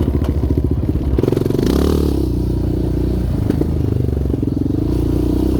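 Yamaha Raptor 700R sport quad's single-cylinder four-stroke engine running under throttle while riding. The note picks up about a second in, eases off briefly around the middle, then comes back on.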